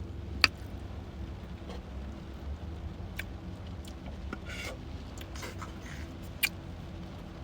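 Mouth sounds of eating and drinking: three sharp lip-smack clicks, the loudest about half a second in, and a brief soft rustle, over a low steady hum.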